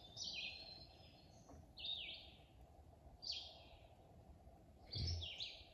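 A bird calling four times, each a short downward-slurred call about a second and a half apart, over a faint steady background hiss. A low thud comes with the last call, near the end.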